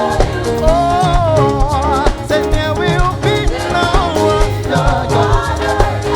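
Upbeat praise and worship music from a band, with drums and bass keeping a steady dance groove under a lead voice singing a wavering, ornamented line.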